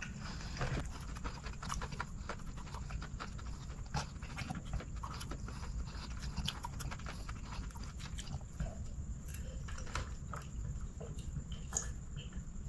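Close-miked chewing and mouth sounds as a man chews a mouthful of chicken biryani: irregular wet smacks and clicks, with breathing, over a steady low hum. Near the end he drinks from a glass mug.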